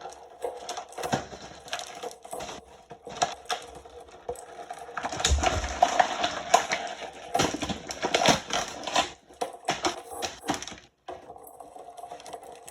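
Hard plastic toy helicopter being handled and turned over, with a run of irregular clicks, taps and rattles from its parts, busiest in the middle.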